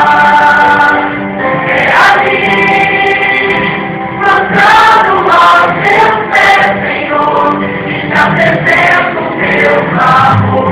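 Choir of mixed male and female voices singing a Christian song in harmony, holding long notes that change every second or so.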